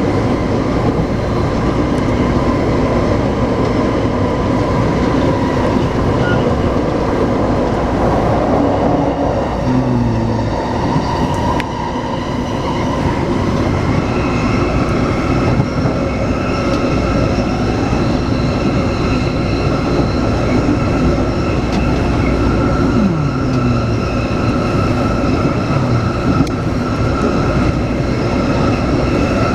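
Taipei Metro C381 train running at speed between stations: a steady rumble of wheels on rail, with the electric traction drive's whine as a set of steady high tones that grow stronger about halfway through.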